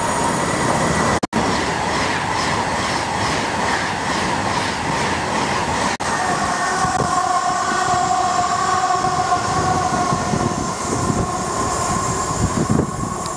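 A train running through on the rails, loud and continuous, with a quick rhythmic clatter of wheels in the first half and a steady high-pitched tone joining about halfway through.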